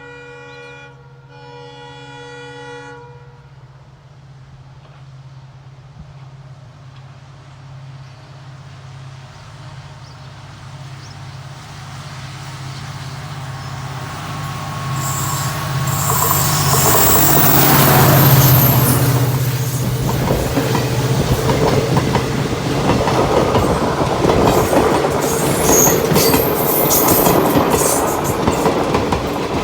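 Indian Railways WDP-4D diesel-electric locomotive with a two-stroke EMD engine passing at speed: its horn sounds with a short break about a second in and stops after about three seconds, then the engine's low drone grows as it approaches, loudest a little past halfway as the locomotive passes. The passing coaches follow with a steady rattle and clickety-clack of wheels over rail joints.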